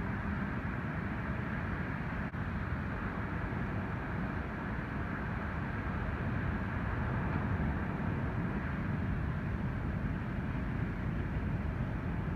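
Ocean surf from an incoming typhoon swell, waves breaking on the beach in a steady, deep rush of noise that swells slightly partway through.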